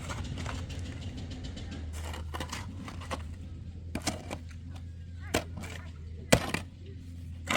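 A few sharp knocks and clicks at irregular intervals, the loudest a little after six seconds in, over a low steady hum.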